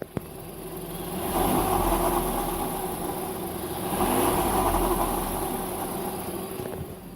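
Volkswagen-group 1.4 TSI 122 hp turbocharged four-cylinder petrol engine running in its engine compartment, heard close up. It swells twice, about a second in and again about four seconds in, then settles back near the end. The owner is recording it to show a noise from the engine bay.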